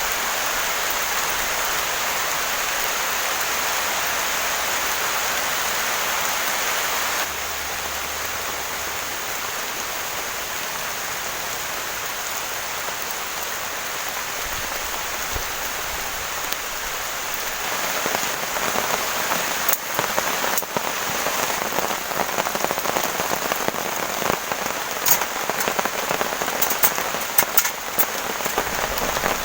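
Heavy rain falling steadily. From a little over halfway, the rain turns rougher with many distinct drop impacts, and sharp, loud taps come in near the end.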